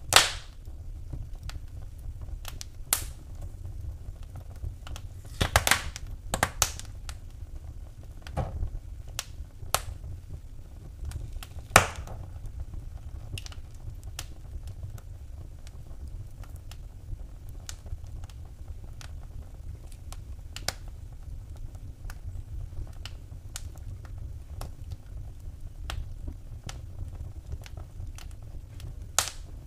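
Wood fire burning in a fireplace, crackling with irregular sharp pops, a few much louder snaps among them, over a low steady rumble.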